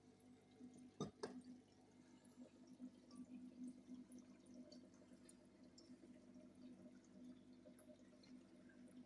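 Near silence: a faint steady low hum with scattered faint water drips and small ticks, and two sharp knocks about a second in.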